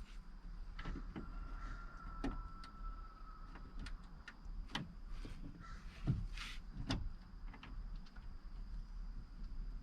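Scattered knocks and clicks of a car door speaker and door parts being handled and fitted back into the door.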